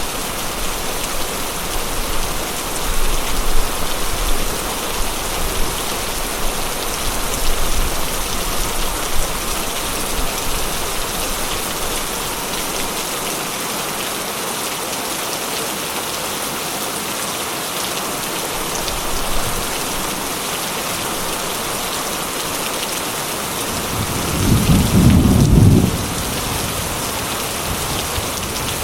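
Steady heavy rain. A low rumble of thunder swells and fades near the end.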